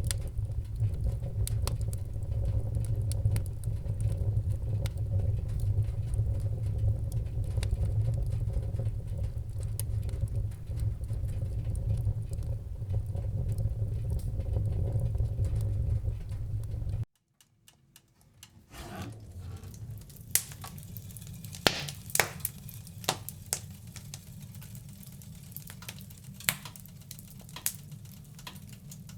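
Wood fire in a fireplace crackling over a steady low rumble of flames. About 17 seconds in it cuts off abruptly for a second or so. It then comes back quieter, with a lighter hiss and sharper, louder pops and snaps.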